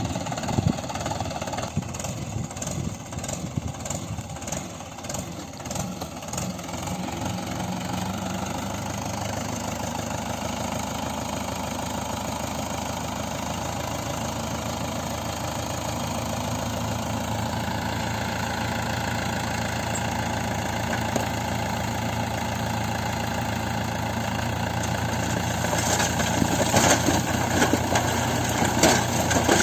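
Heavy diesel engine running steadily, working harder from about halfway through. Short knocks come in the first several seconds and again near the end.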